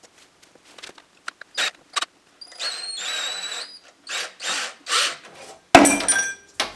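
Power drill driving a flathead screw: about a second of steady motor whine, then several short bursts on the trigger, then a sharp clattering knock near the end.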